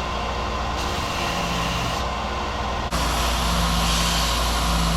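Power sander running steadily, sanding wooden handle blanks down to thickness, with a constant motor hum. About three seconds in the sound jumps and turns louder.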